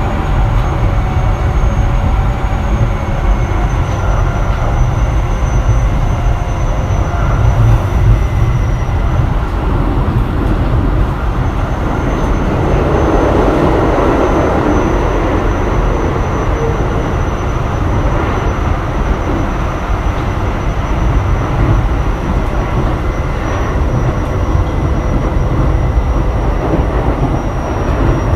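Keio 7000 series electric train running, heard from inside the car: steady wheel-on-rail rumble with the faint tones of its Hitachi IGBT inverter-driven traction motors. A louder stretch of rushing noise swells up around the middle.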